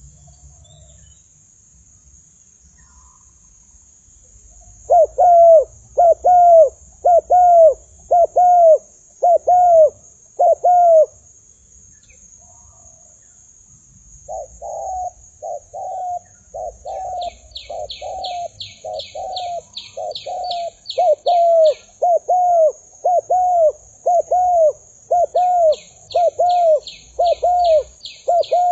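Spotted dove (tekukur) cooing in a fast, even string of short, falling coos, the aggressive fight call used to lure wild doves. The coos come in a short run of about seven, then after a pause a longer run of about twenty. Twice during the second run a faster series of high chirps sounds over them.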